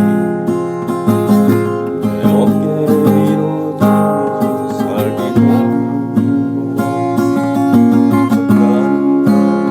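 Acoustic guitar strummed and picked in a steady rhythm, an instrumental passage between the sung lines of a ballad.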